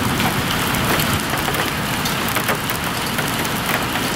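Steady rain falling: an even hiss dotted with many small drop ticks, over a low rumble.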